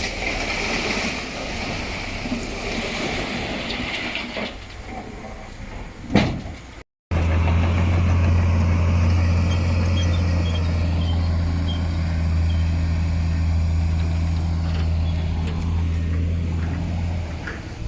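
Heavy diesel earthmoving machinery: a rough, noisy working stretch with one sharp loud knock about six seconds in. After an abrupt cut, a heavy diesel engine runs steadily at one unchanging pitch.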